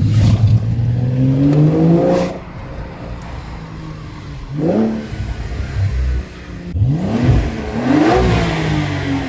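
Porsche 992 Carrera T's 3.0-litre twin-turbo flat-six accelerating hard with its titanium valved exhaust's valves open, heard from inside the cabin. The engine note rises for about two seconds, drops at a shift, climbs briefly about five seconds in, and pulls up again near the end.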